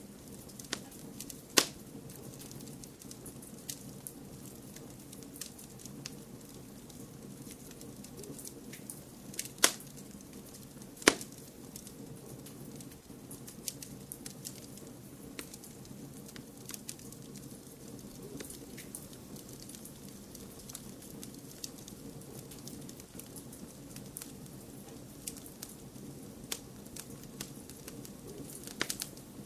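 Fireplace fire crackling: frequent small snaps and ticks over a steady low rush of noise. There are three louder sharp pops, one near the start and two close together about ten seconds in.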